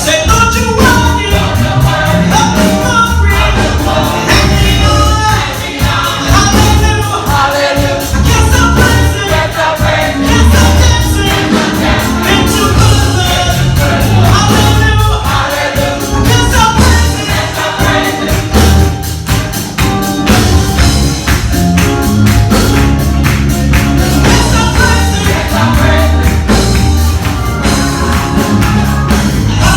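Gospel choir singing with a band, bass and a steady tambourine beat.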